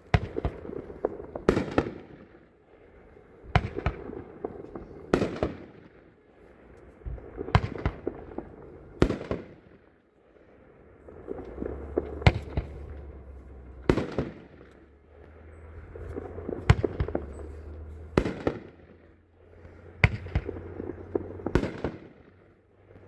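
Multi-shot consumer firework cake firing in sequence: a sharp report every one to two seconds, each with a rushing swell of noise around it. A low steady hum joins about halfway through.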